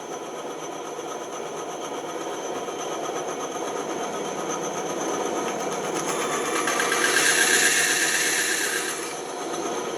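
Bandsaw running steadily, slowly getting louder, with a harsher, brighter cutting sound from about seven to nine seconds in as the blade works through wood.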